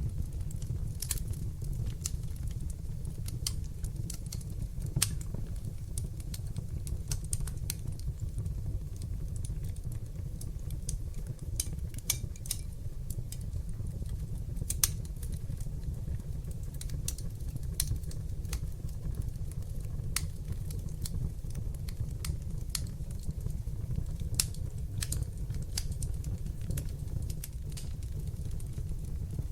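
Wood fire burning in a fireplace: a steady low rumble of the flames with sharp, irregular crackles and pops.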